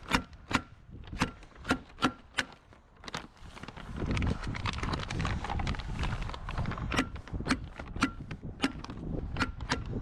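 Staple gun fastening plastic vapour barrier: sharp clicks, about two a second. There is a run of about six in the first few seconds, a pause, then another run near the end. Wind rumbles on the microphone from about four seconds in.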